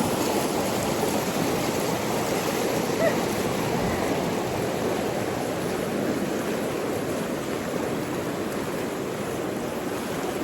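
River water rushing over rapids, a steady even rush, close to the microphone, as the current picks up.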